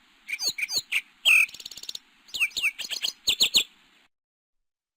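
Sparrow chirping: a rapid series of short, sharp chirps in two bouts with a brief buzzy trill between them, stopping about four seconds in.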